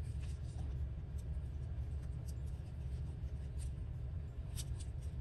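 Light rustling and small ticks of paper scraps being handled on a work surface, over a steady low hum.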